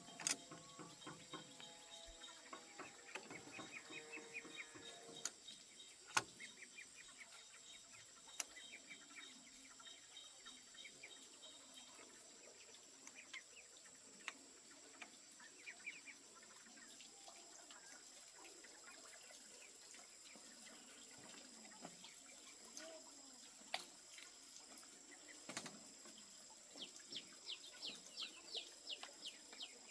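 Faint rural ambience: a steady high insect drone, with chickens clucking and birds chirping in short repeated runs. A few sharp knocks stand out, the loudest just after the start and about six seconds in.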